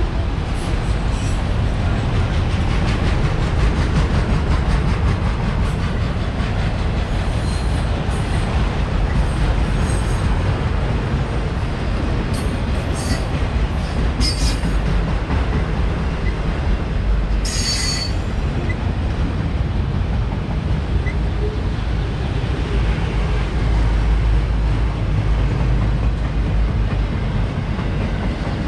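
CSX freight train rolling past with a steady heavy rumble of cars on the rails. Short high-pitched wheel squeals come in several times around the middle.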